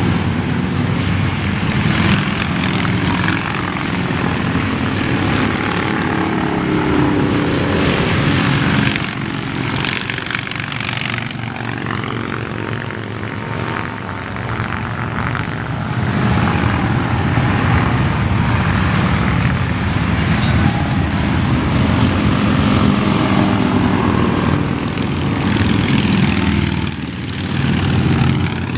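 A steady stream of motorcycles riding past on a highway, many engines blending into one continuous drone that swells and eases as bikes go by.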